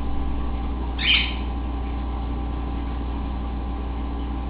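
A cockatiel gives one short chirp about a second in, over a steady low background hum.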